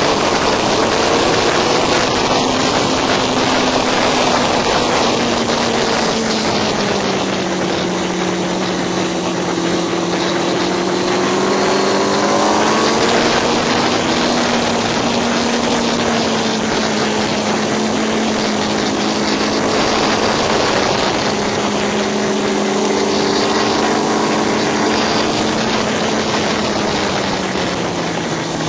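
Motorcycle engine running hard on a race track, heard on board under heavy wind rush. Its pitch rises and falls several times as the rider works the throttle and gears through the corners.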